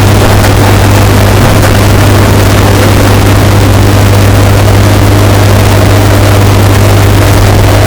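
Washing machine running with a steady, unchanging drone, bass-boosted and overdriven so that a heavy low hum dominates and the sound is loud and distorted.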